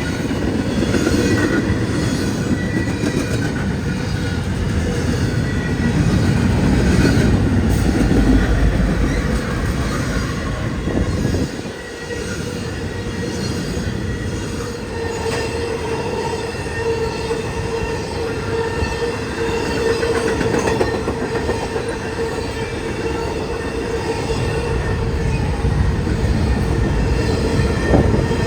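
A train rolling past on the tracks, its wheels making a steady rumble on the rails. In the second half a squeal from the wheels holds on one pitch.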